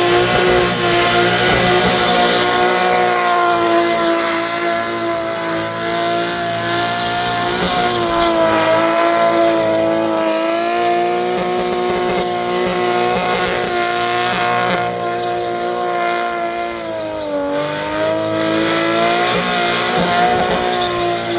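V8 muscle car engine held at high revs through a burnout, a steady high-pitched note that sags briefly a few times, with the hiss and squeal of the spinning tyres.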